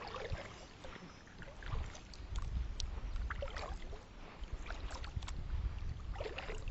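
A kayak on the water: water sloshing and small knocks on the hull, with low rumbling through most of the stretch.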